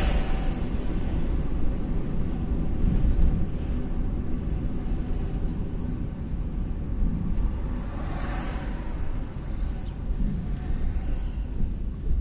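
Steady low vehicle rumble, with a brief swell of louder noise about eight seconds in.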